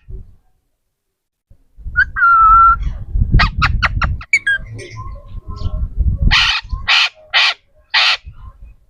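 A parrot calling: a clear whistled note, a quick run of short clicking chirps, then five harsh squawks in an even series about half a second apart. A low rumble runs under the first half.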